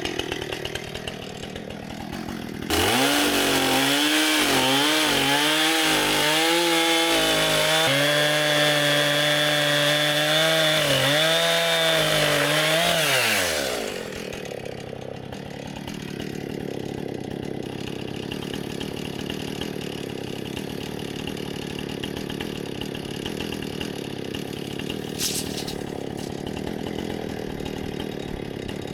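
Two-stroke chainsaw cutting through a log: it runs low, goes to full throttle about three seconds in, and holds there for about ten seconds, its pitch dipping and wavering as the chain bites into the wood. It then drops back to idle for the rest.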